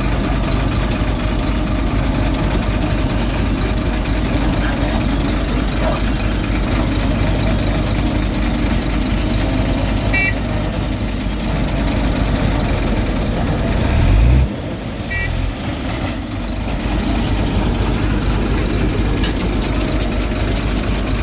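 Heavy diesel road-construction machinery running steadily with a deep rumble. It swells louder a little past halfway, then drops off abruptly. Two brief high beeps sound about five seconds apart.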